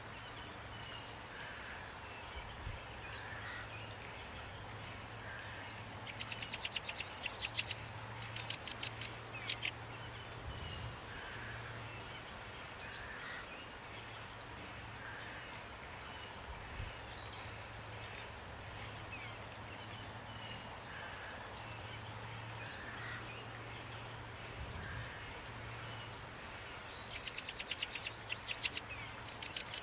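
Steady rain hiss with songbirds calling over it: many short, high, falling chirps, and twice a fast rattling trill that stands out as the loudest sound.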